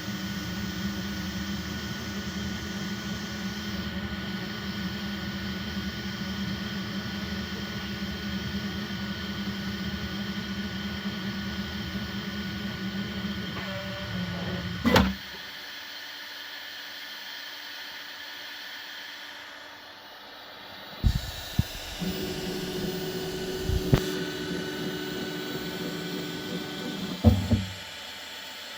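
Bambu Lab X1C 3D printer running, a steady mechanical hum of its motors and cooling fans. About halfway through a sharp click cuts the hum to a quieter level. It starts again with a few more clicks and drops back once more near the end.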